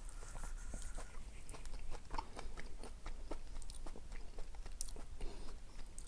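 A person chewing and biting food close to the microphone, with many short wet mouth clicks and smacks.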